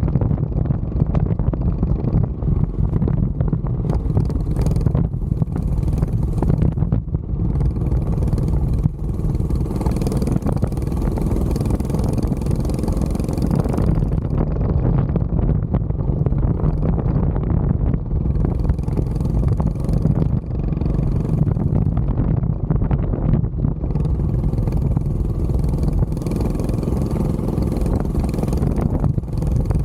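Mini bike's small engine running steadily while riding, with wind buffeting the microphone in gusts.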